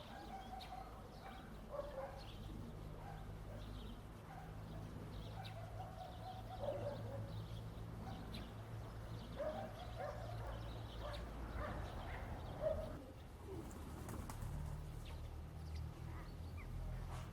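Birds calling in short, separate notes, with scattered sharp taps and a steady low hum underneath.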